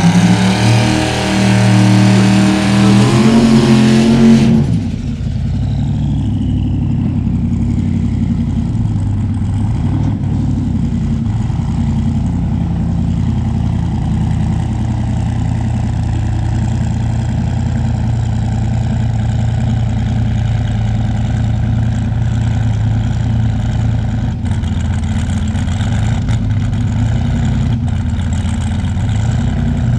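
Turbocharged 4.8-litre V8 race truck engine revving loudly for about four and a half seconds, then dropping suddenly to a steady, duller idle.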